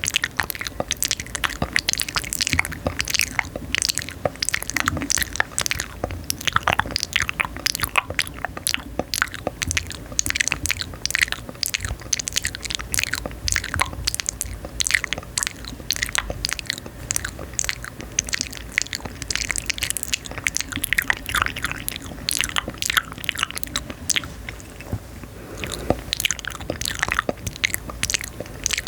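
Close-miked ASMR crunching and crackling: a dense, continuous run of crisp little clicks and cracks with no speech.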